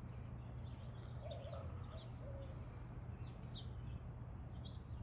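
Faint outdoor ambience: a few short bird calls and chirps scattered over a steady low rumble.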